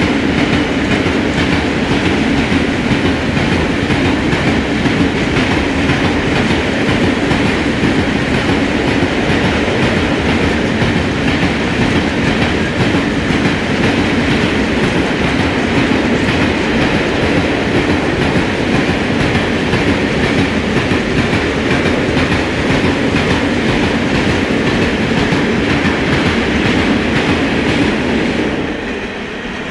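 A long freight train of hopper wagons rolling past close by, with a steady, loud rumble of wheels on the rails. The noise drops off sharply near the end as the last wagons go by.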